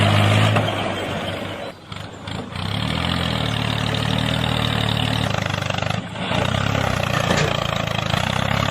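Steady tractor-engine running sound from a mini tractor. It drops off briefly about two seconds in and again at about six seconds, then picks back up.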